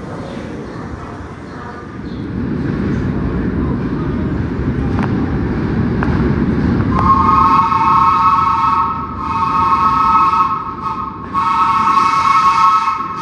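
A train rumbling closer, growing louder, then sounding a three-note chord horn in three long blasts from about seven seconds in.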